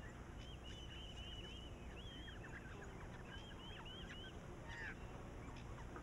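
Faint birdsong: a bird repeats short, high chirping notes in quick runs, with a few lower falling notes a little before the end, over a low hiss.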